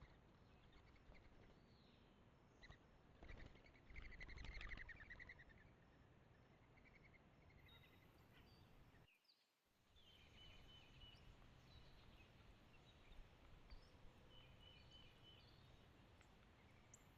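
Faint birds calling over low outdoor background noise, with the loudest call about four to five seconds in. The sound briefly drops out about nine seconds in, then more faint chirps follow.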